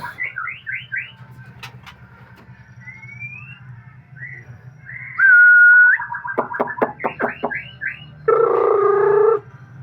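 White-rumped shama (murai batu) singing a string of varied phrases: quick upward-sweeping notes, rapid runs of repeated notes, and a loud held whistle about five seconds in. Near the end comes a loud, deep, throaty note lasting about a second, the 'glodog' sound that songbird keepers prize in this bird. A steady low hum runs underneath.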